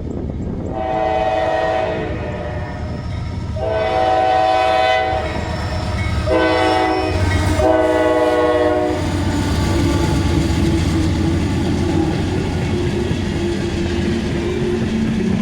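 Norfolk Southern coal train's diesel locomotive horn sounding four blasts, the third the shortest, the long-long-short-long pattern of a grade-crossing signal. After the horn stops, about nine seconds in, the locomotives run past with a steady engine drone and the clatter of the train on the rails.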